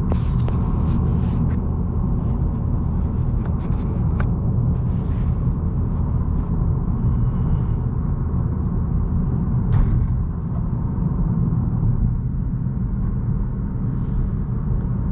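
2018 Honda Accord 1.5T's turbocharged four-cylinder engine and tyres on the road, a steady low rumble while driving.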